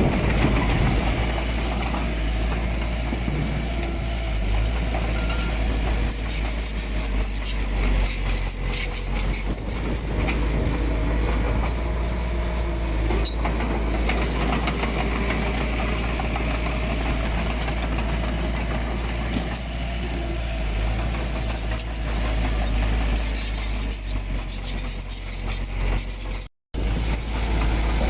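Heavy diesel earthmoving machinery running steadily, with a low rumble and scattered rattles and clanks. The sound drops out for an instant near the end.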